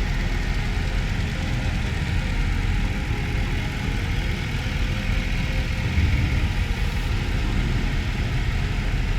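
Range Rover's 5.0-litre supercharged V8 idling steadily, with a brief louder low thud about six seconds in.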